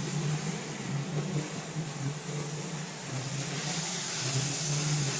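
Hydraulic log-peeling machine running steadily as it shaves roundwood into slats: a low mechanical hum under a broad hiss. The hiss grows louder about three and a half seconds in.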